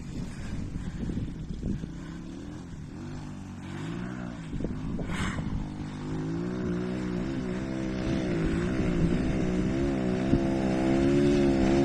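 Lifan 125 pit bike's single-cylinder four-stroke engine being ridden, its pitch rising and falling with the throttle and growing louder as the bike approaches.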